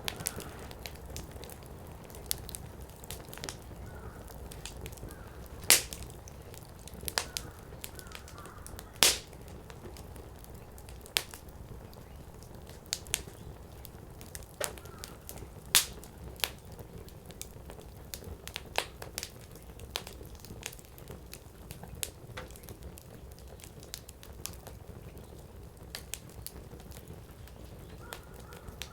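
Firewood burning in a Coleman Fire Disk fire pit, crackling with irregular sharp snaps and a few louder pops, over a low steady rumble.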